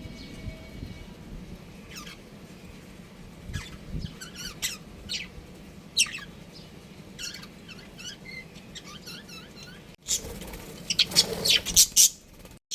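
Budgerigars chirping: scattered short chirps that glide up and down in pitch, growing louder and busier in the last few seconds.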